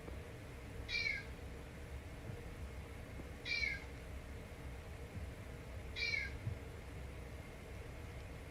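A kitten meowing three times: short, high-pitched meows about two and a half seconds apart, each falling in pitch.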